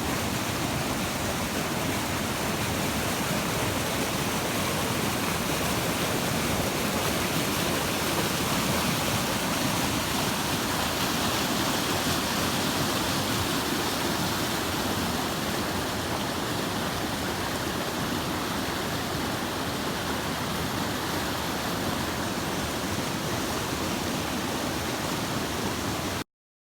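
Mountain brook rushing steadily. It cuts off suddenly near the end.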